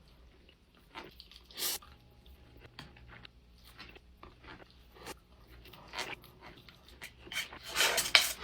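A person chewing and biting a mouthful of food, with small crunches and clicks that grow louder and more frequent near the end.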